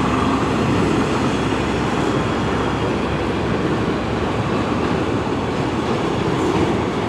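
CN train's cars rolling past close by: a loud, steady rumble and rattle of steel wheels on the rails as the train picks up speed.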